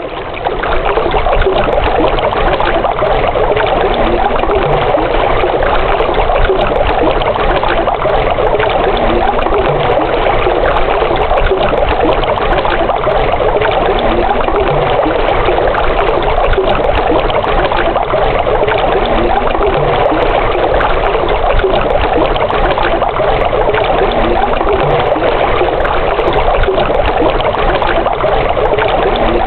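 Steady rush of running water, fading in over the first second and then holding even.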